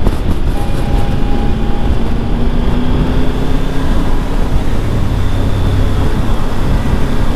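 On-board sound of a Triumph Tiger 1200 GT Pro motorcycle riding along: its three-cylinder engine running under a loud, steady rush of wind on the microphone, the engine note rising slowly for a couple of seconds near the start.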